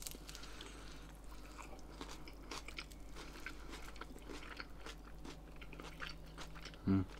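Close-miked chewing of a veggie-chicken quesadilla: a run of soft crunches and wet mouth clicks, with a brief voiced sound from the eater near the end.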